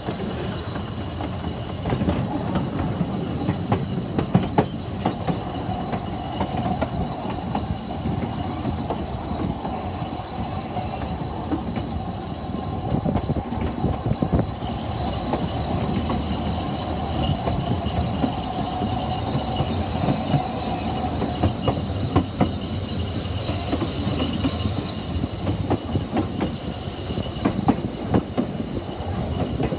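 Ffestiniog Railway narrow-gauge carriage running along, its wheels clicking over rail joints under a steady rumble. A thin high whine joins about halfway through and carries on to the end.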